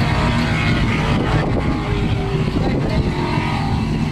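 Holden VR Commodore V8 running at high revs through a burnout, holding steady while the rear tyres spin and smoke.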